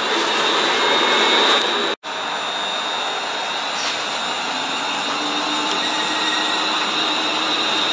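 London Northwestern Railway electric multiple unit running past along the platform: a steady rush of wheels on rail and moving air with a faint high whine. The sound breaks off for an instant about two seconds in.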